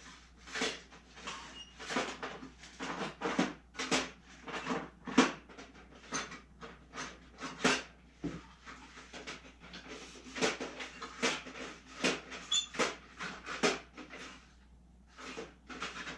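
Small drawers of a parts organizer being opened and rummaged through, with loose small parts clattering in an irregular string of clicks and knocks.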